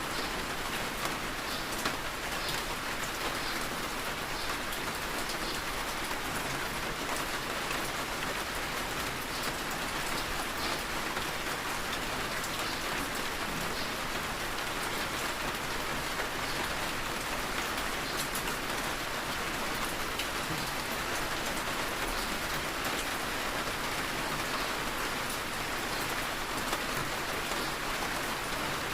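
Heavy rain falling steadily, with now and then a single drop striking close by.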